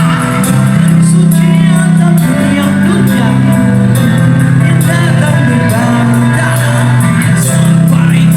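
Rock band playing live at full volume: heavy bass notes held and changing every second or so, with singing and shouting over the band.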